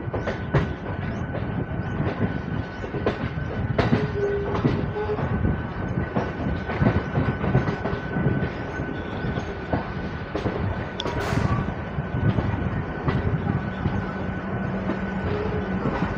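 MMTS electric local train running slowly over points and crossings, heard from its open doorway: steady rumble with irregular wheel clatter and clicks over rail joints, and a thin steady whine.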